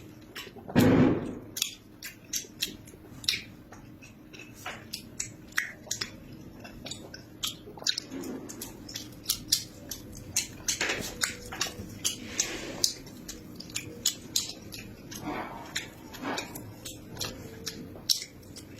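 Close-miked eating: chewing and biting with frequent wet mouth clicks and smacks, and a few louder, longer slurping or munching sounds scattered through.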